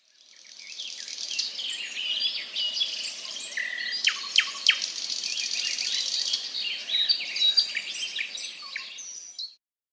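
A chorus of small birds chirping and singing, with a few sharp falling whistles in the middle; it fades in over the first couple of seconds and cuts off shortly before the end.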